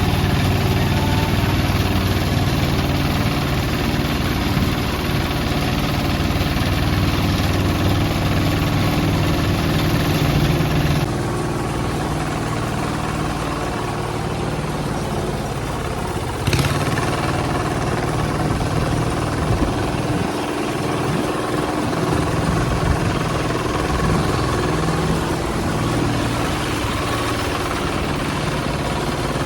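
Hand tractor engine running steadily. About eleven seconds in the sound changes abruptly, and a single sharp click comes about five seconds later.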